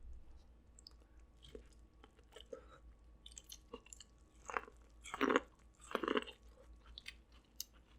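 Close-miked eating sounds: chewing, with small clicks and crunches of seafood-boil food, and a few louder wet chews about halfway through.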